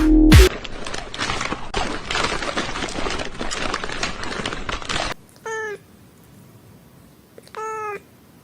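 Two short cat meows about two seconds apart, each a single pitched call lasting about half a second, following several seconds of a dense, rough noisy sound.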